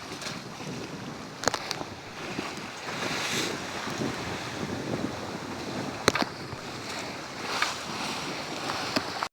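Water washing and wind buffeting the microphone aboard a sailboat under way, with the wash swelling now and then. Two sharp knocks stand out, about a second and a half in and about six seconds in.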